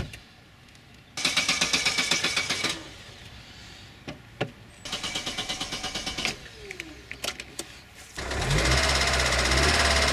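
Opel Corsa B's starter motor cranking the engine twice in short rapid bursts without it firing, with a click between. About eight seconds in the engine catches and runs steadily and louder.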